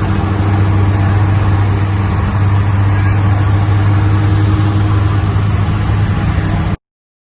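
Saab 9-3 Aero's turbocharged 2.8 V6 with the muffler removed, droning steadily at a constant engine speed through straight 2.5-inch pipe. The sound cuts off abruptly near the end.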